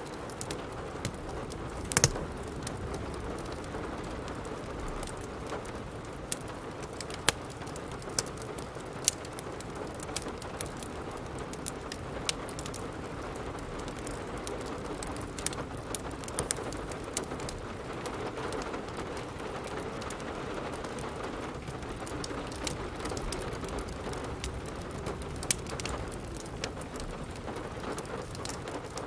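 Steady rain with a wood fire crackling, sharp pops scattered irregularly through it; the loudest pop comes about two seconds in.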